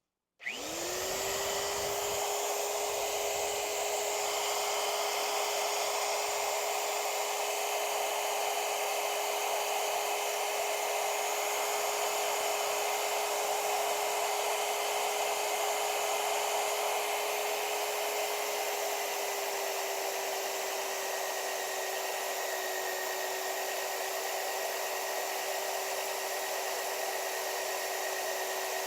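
Blue Rock drill press motor spinning up about half a second in, then running with a steady electric whine. Its pitch drops slightly twice in the second half.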